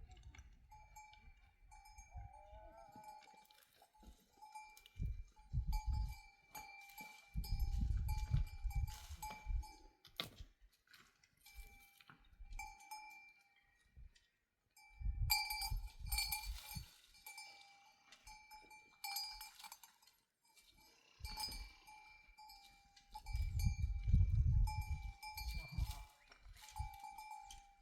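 Bells hung on livestock clinking and ringing on and off as the herd moves, with several low rumbles of a second or two in between.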